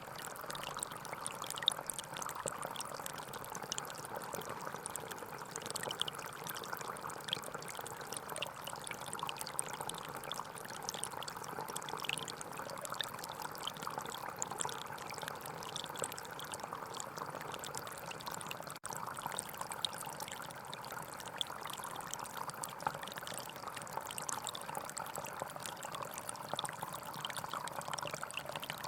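Gentle forest stream running and trickling steadily, with a split-second gap about two-thirds of the way through.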